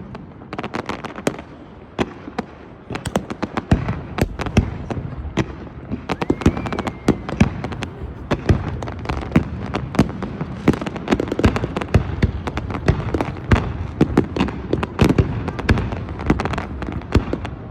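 New Year's fireworks going off all around: a dense, irregular string of sharp bangs and crackles over a constant rumbling background.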